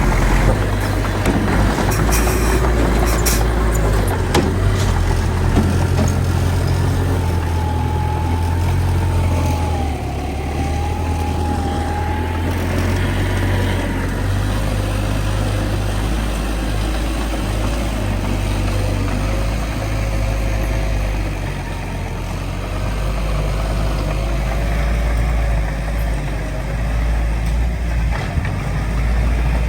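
Heavy earthmoving machinery's diesel engine running steadily with a deep rumble. A few sharp metallic knocks come about two to five seconds in, and a wavering whine rises and falls in the middle.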